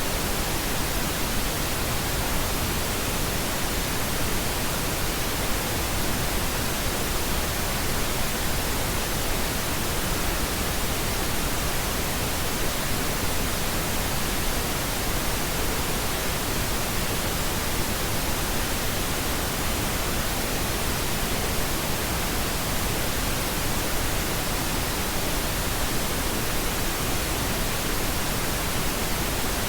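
Steady synthetic pink noise: an even, unchanging hiss spread across all pitches, with no tones or events in it.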